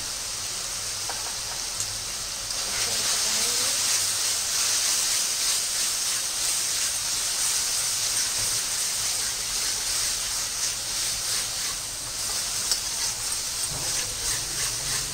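Spice masala of onion-tomato paste frying in oil in a metal kadhai, sizzling with a steady hiss while a spatula stirs and scrapes it against the pan; the sizzle gets louder about two and a half seconds in. The masala is being cooked down until done.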